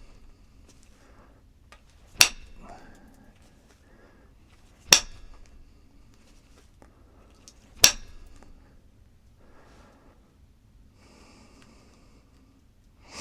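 Percussion flintknapping: a hard tool strikes the edge of a stone core three times, roughly every two and a half to three seconds, each a sharp click-like crack as a flake is knocked off, with faint handling of the stone in between.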